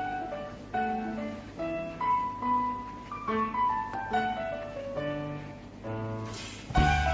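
Instrumental introduction of a song's backing music: a melody of piano-like keyboard notes, growing louder and fuller near the end as bass and drum hits come in.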